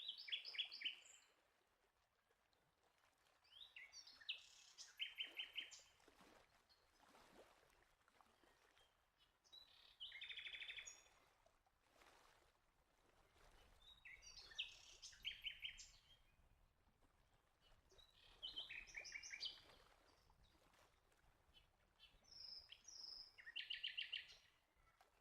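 A bird singing: six short phrases of quick repeated high notes, each a second or two long, coming about every four seconds.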